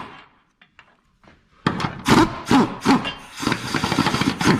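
Ratchet wrench with a 19 mm socket being worked on a front subframe bolt, loosening it. It starts nearly two seconds in as a run of rasping strokes that come faster toward the end.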